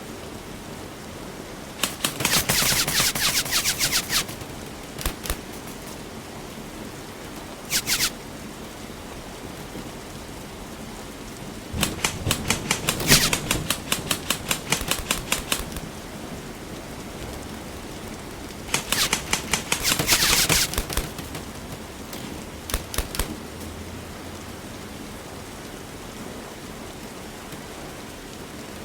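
Airsoft guns firing rapid full-auto bursts of shots, several strings of a second or more each and a few short ones, over a steady hiss.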